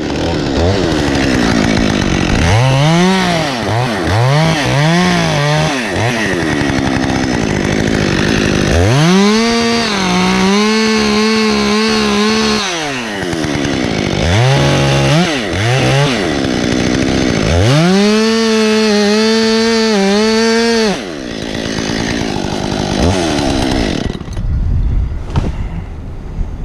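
Chainsaw revving in short blips, then held at full throttle twice for a few seconds at a time, the pitch wavering as it cuts into oak wood. Near the end it drops back and falls away.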